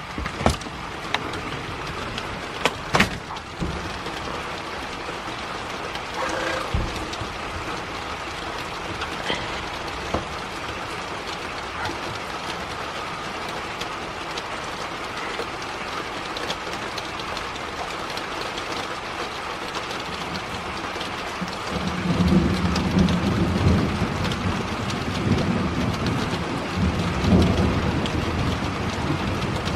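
Steady rain falling, with a couple of sharp clicks in the first few seconds. About two-thirds of the way through, a low rumble of thunder sets in and rolls on, rising and falling, to the end.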